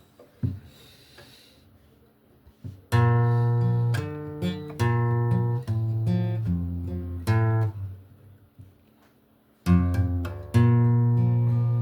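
Acoustic guitar played alone: after a few faint knocks, strummed chords start about three seconds in and change every second or so, stop briefly, then resume with a long ringing chord near the end.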